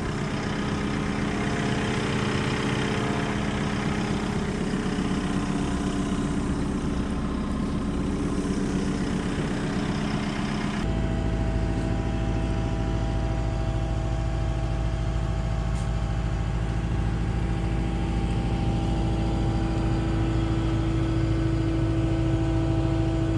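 Skid steer engine running steadily. About eleven seconds in, the sound switches abruptly to a heavier, lower engine note.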